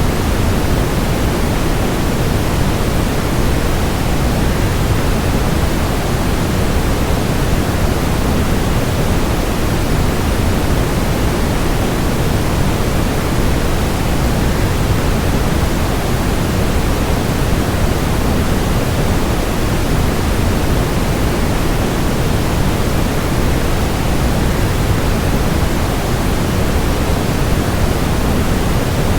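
Waterfall rushing, blended with a steady white-noise bed: an even, unbroken hiss weighted toward the low end.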